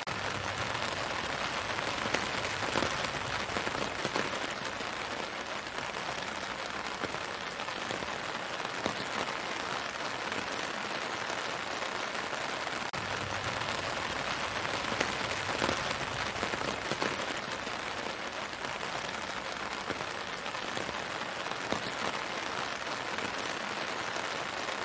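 Steady rain falling on leaves and the ground, with many separate drops pattering and the intensity swelling slightly at times.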